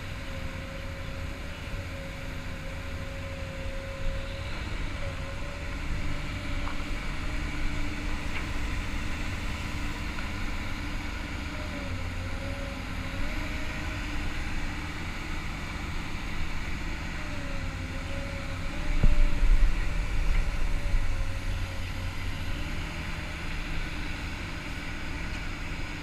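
Komatsu PC200-8 hydraulic excavator's diesel engine running, with a steady whine that dips in pitch and recovers several times as the load changes. A louder low rumble swells for about two seconds around two-thirds of the way in.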